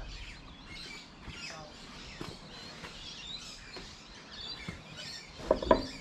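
Birds chirping in the background, with two sharp knocks close together near the end.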